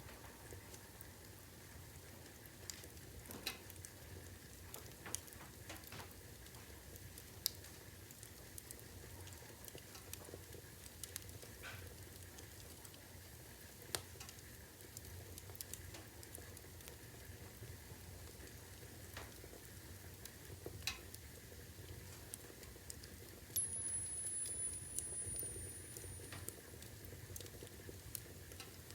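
Wood fire crackling: scattered sharp pops and snaps over a low, steady rumble, with a thin high whistle for a couple of seconds near the end.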